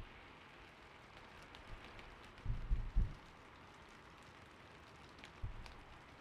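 Steady, gentle rain in the background, with two short bursts of soft, low-pitched keystrokes on a creamy-sounding keyboard, about two and a half seconds in and again near the end.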